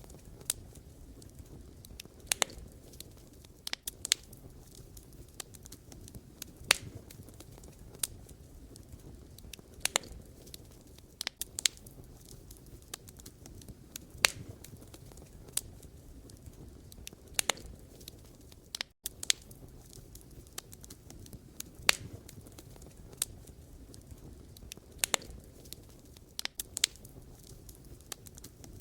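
Wood fire crackling: irregular sharp pops and snaps from burning firewood, a few every second, over a low steady rumble of the flames.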